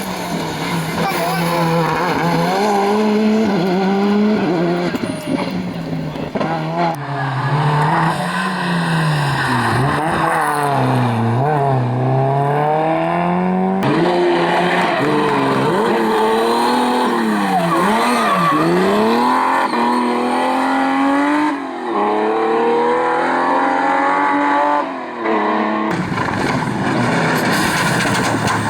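Rally car engines driven hard. The engine note climbs steeply and drops sharply over and over with gear changes and braking, across several passes that change abruptly every few seconds.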